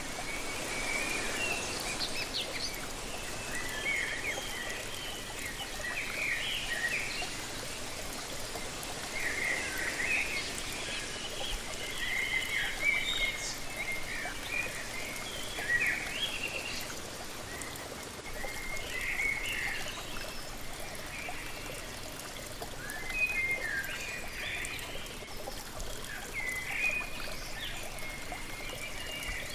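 Waterfall running steadily, with songbirds chirping in short repeated phrases over it.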